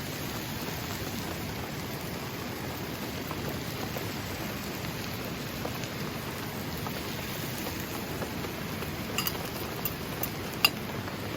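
Heavy rain falling steadily, with a few sharp clicks near the end.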